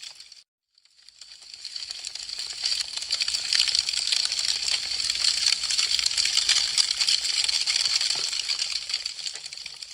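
Wood fire crackling: a dense stream of fine, sharp pops and snaps. Just after the start it fades out to a brief silence, then builds back up over a second or two, and it starts to fade again near the end.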